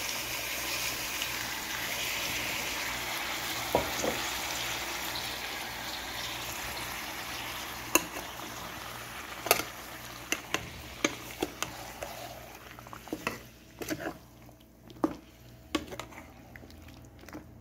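Spinach purée sizzling in hot oil over fried potatoes in a metal pot, the sizzle slowly dying down. A metal ladle then stirs the mix, knocking against the pot in sharp clicks that come thick and fast near the end.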